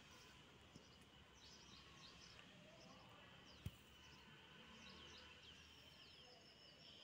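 Faint outdoor ambience: small birds chirping in short, repeated bursts over a steady high hum, with one sharp click about three and a half seconds in.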